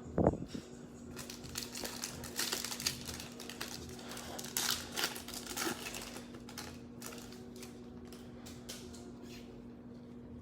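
Trading card pack wrapper crinkling and tearing as it is opened, with cards handled and shuffled. The crinkling comes in irregular bursts for several seconds and thins out near the end, after a short low sound right at the start.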